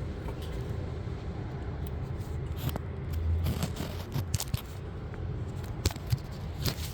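Scattered light clicks and scrapes of hands working on parts of a car, over a steady low rumble.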